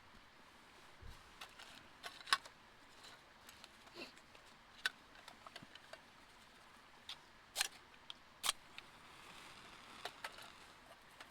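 A scatter of sharp little clicks and light taps at irregular intervals, over a faint steady hiss.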